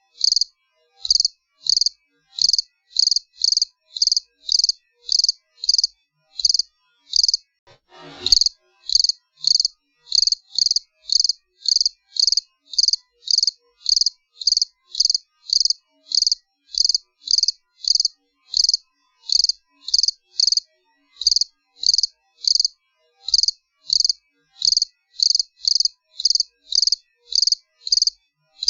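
A cricket chirping steadily: short, high chirps evenly spaced at about one and a half a second, with one brief soft noise about eight seconds in.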